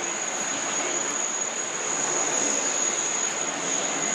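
Jet airliner engine noise at an airport, a steady rushing sound with a constant high-pitched whine over it.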